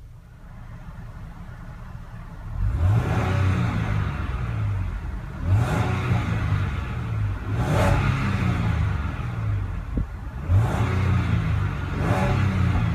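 The 2015 Land Rover LR4's 3.0-litre supercharged V6 is revved several times, each blip rising in pitch and falling back. It comes in loudly about two and a half seconds in, after a quiet start.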